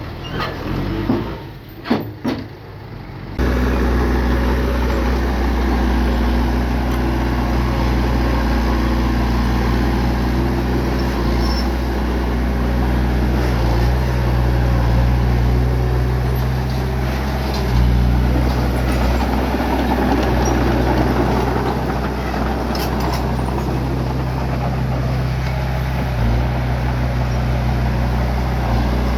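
A bulldozer's diesel engine running steadily with a deep, low drone that comes in abruptly a few seconds in. Before it, a few sharp knocks.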